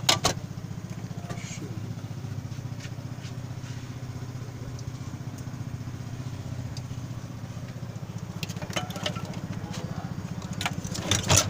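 An engine running steadily with a low, fast-pulsing drone. There is a sharp knock just after the start and a cluster of knocks and clatter near the end.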